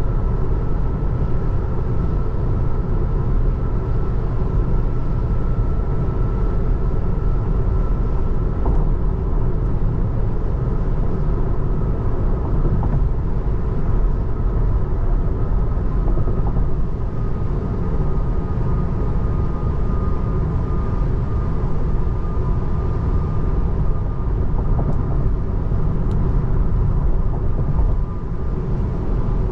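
Steady road and tyre rumble inside the cabin of a 2024 Tesla Model 3 electric car driving along, with a thin steady whine above it.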